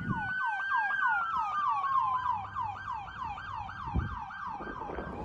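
Emergency vehicle sirens: one gives a fast yelp of falling sweeps, about four a second, while a second, steady wail glides slowly down in pitch about a second in. The sirens cut off suddenly at the end.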